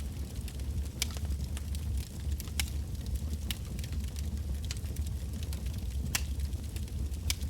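Wood bonfire burning, crackling and popping at irregular intervals over a steady low rumble, with a few louder pops scattered through.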